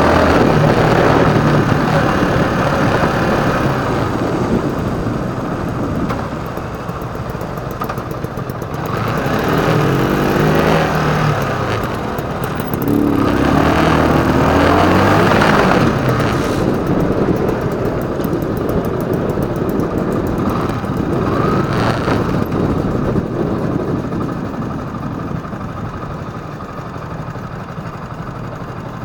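Motorcycle engine running while riding, under a steady rush of noise. The engine pitch rises and falls twice as the bike accelerates, about nine and thirteen seconds in, and the sound grows quieter near the end.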